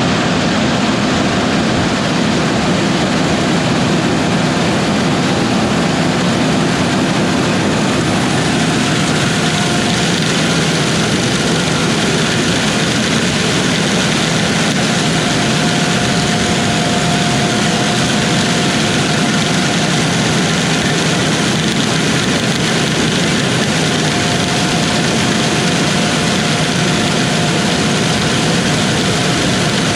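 Combine harvester running steadily at work in wheat, a constant engine and machinery drone with a faint high whine that comes and goes.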